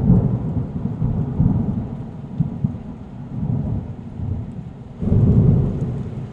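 Rain in a storm, with a low, uneven rumble that is loudest at the start and swells again about five seconds in.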